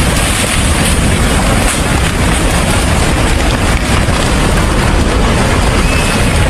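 Loud, steady rushing noise with no clear pitch or rhythm, with a faint short whistle about six seconds in.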